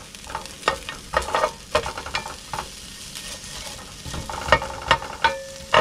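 Onions frying with garlic and ginger in a pan, a steady sizzle broken by irregular clicks and scrapes of a utensil against the pan as they are stirred.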